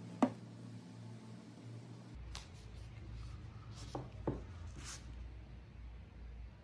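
Faint handling sounds of small metal toy wheel-and-axle sets on a work surface: one sharp click a quarter second in, then two lighter clicks about four seconds in, over a low steady hum.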